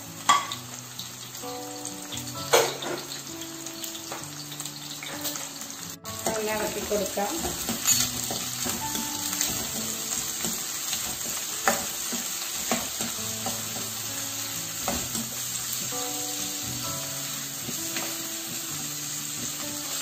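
Sliced onion, green chillies, ginger, garlic and curry leaves sizzling in hot coconut oil in a non-stick kadai, with a spatula scraping and knocking against the pan as they are stirred. The sizzle gets louder about six seconds in, and quiet background music plays underneath.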